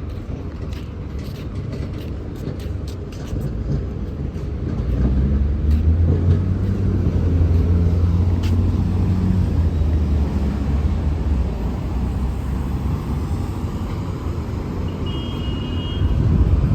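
Street traffic, with a large vehicle's engine rumbling close by, growing louder about a third of the way in, then easing off.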